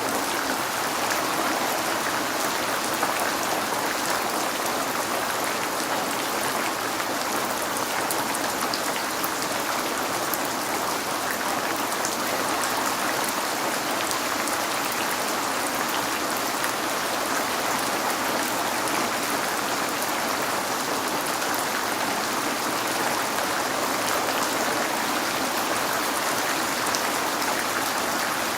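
Steady rain falling on a window, a continuous even hiss with fine drop ticks.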